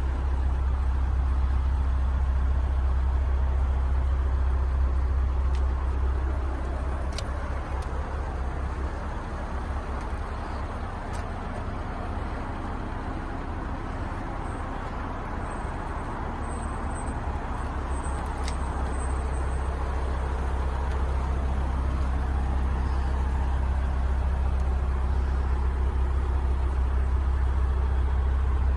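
Steady deep hum of an idling vehicle engine, a little quieter for a while in the middle, with a few faint clicks.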